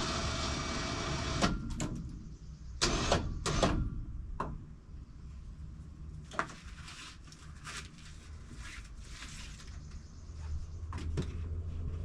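A winch motor runs and stops about a second and a half in. Scattered knocks and clunks follow, several close together early on, one around the middle and two near the end, over a low hum.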